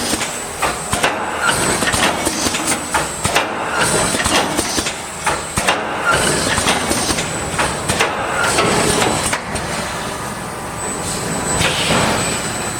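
Automatic wire mesh / cable tray welding machine running, with repeated knocks and clatter and a work cycle recurring about every two seconds.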